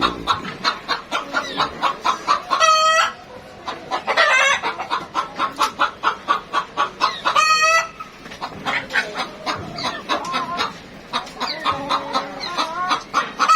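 Hens cackling: rapid clucks at about five or six a second, twice rising into a long drawn-out squawk. The cackling comes from hens around laying, one of them just lifted off her nest before finishing her egg.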